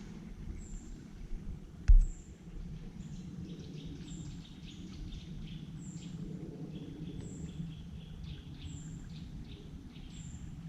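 Forest birds chirping, with a thin high note repeating about once a second and busier chirping from a few seconds in. One sharp knock about two seconds in is the loudest sound.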